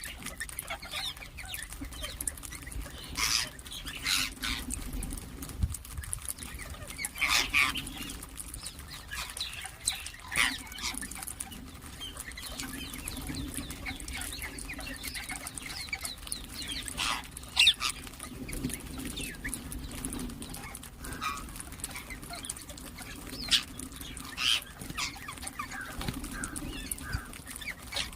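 Ringneck parrots (rose-ringed parakeets) giving short, sharp, high calls and chirps at irregular intervals, with the loudest calls about a quarter of the way in and just past the middle.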